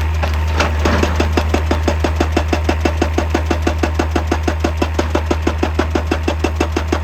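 An excavator's engine running steadily, with its hydraulic breaker (rock hammer) starting to pound about half a second in and then hammering at an even rate of about five blows a second.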